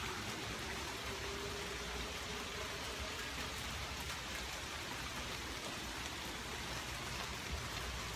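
Heavy rain falling hard and steady in a thunderstorm.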